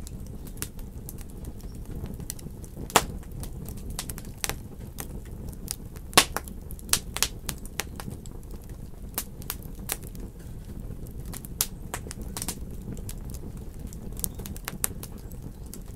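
Wood fire in a fireplace crackling, with irregular sharp pops and snaps over a steady low rumble of the flames; the loudest pops come about 3 and 6 seconds in.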